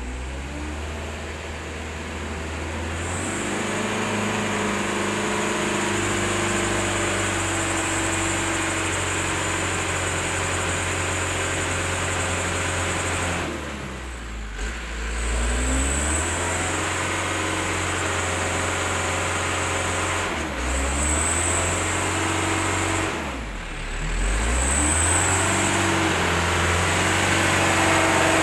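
Mitsubishi Colt Diesel Super HDX dump truck's diesel engine running hard under load. Its revs sag and climb back three times, as the loaded truck works to get through a bad stretch where it has been stuck.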